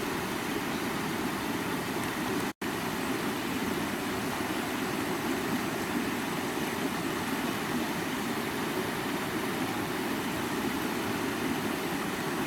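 Creek water running steadily, an even rushing sound. It cuts out to silence for a split second about two and a half seconds in.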